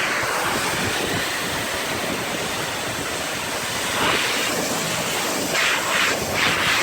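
Pressure-washer jet spraying water onto a truck to rinse off the foam: a steady hiss that swells louder about four seconds in and again shortly before the end as the spray hits nearer surfaces.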